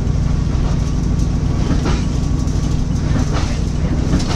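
Steady low rumble of a Thai State Railway sleeper carriage running on the line, heard from inside the car, with a few brief clatters.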